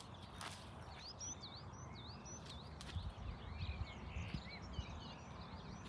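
Small birds singing in the scrub: quick, repeated high chirps that dip and rise in pitch, several each second, over a faint low rumble.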